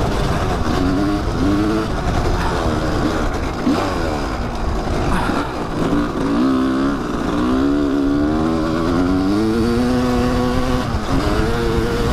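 Kawasaki dirt bike engine running under way, its pitch rising and falling again and again with the throttle as it is ridden along a trail.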